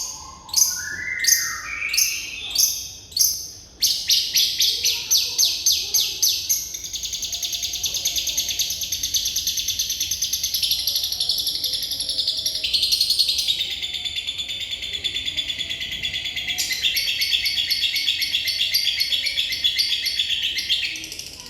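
Lovebird singing: a few separate sharp chirps, then a long unbroken rapid trill that runs for about seventeen seconds before stopping near the end.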